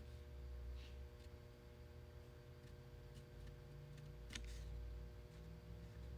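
Faint, sparse clicks and light knocks over a low steady hum.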